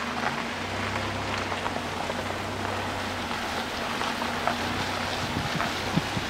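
A car's engine running steadily with a low hum, under an even hiss, heard from inside the vehicle during a slow drive-by.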